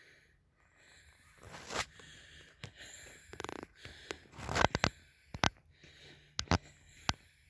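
A person breathing heavily close to the microphone, winded from walking, with a few noisy breaths and several sharp knocks scattered through, the loudest about halfway through.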